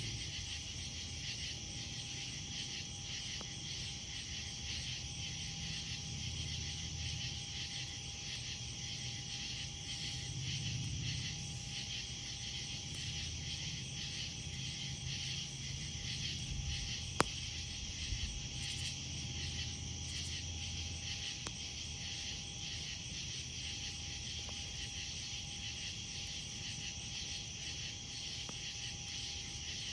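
A steady chorus of night insects chirping in fast, even pulses, over a campfire burning, with one sharp crackle from the fire just past the middle.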